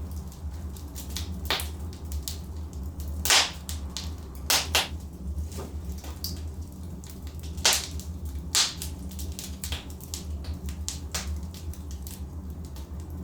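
Logs burning in a fireplace: irregular sharp crackles and pops over a low steady rumble, with the loudest pops about three, four and a half, and eight seconds in.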